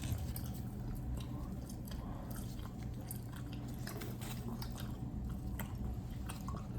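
Mouths chewing big wads of chewing gum, with irregular wet smacking clicks.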